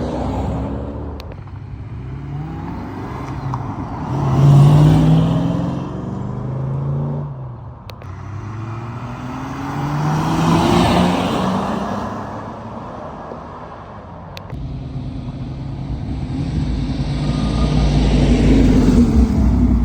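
Cars driving past one after another as they leave a car show, their engines rising in pitch as they accelerate. Three loud passes come about 4, 11 and 19 seconds in.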